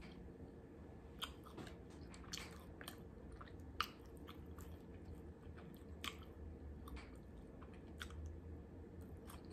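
Close-up chewing and biting of a person eating chow mein and Beijing beef, with scattered short sharp clicks. The sharpest click comes just before four seconds in, as a plastic fork digs into the foam takeout box.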